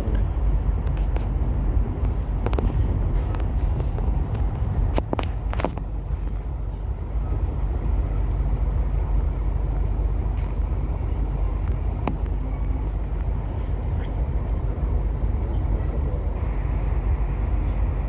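Steady low rumble of a moving passenger train heard from inside the carriage, with a few sharp clicks along the way, two of them close together about five seconds in.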